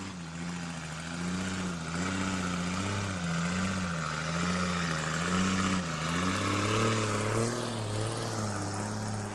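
Heavy logging truck's engine running under load, its note wavering up and down about once a second, with a steady hiss of tyres and machinery.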